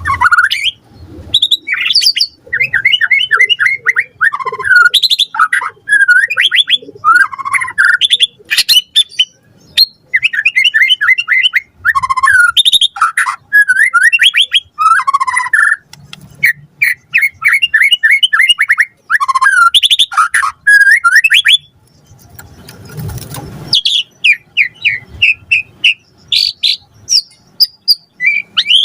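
White-rumped shama (murai batu) singing a fast, varied song of rapid trills, whistles and chattering phrases, with a short harsh, rasping burst about two-thirds of the way through.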